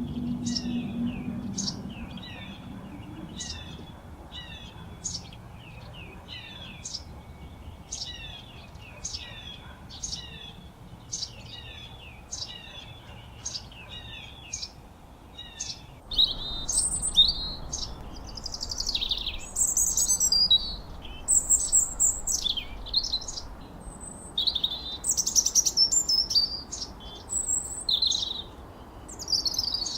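Songbirds chirping. For the first half, one bird repeats a short, falling call about three times every two seconds. About halfway through, the sound switches abruptly to a louder, busier mix of varied high chirps and whistles.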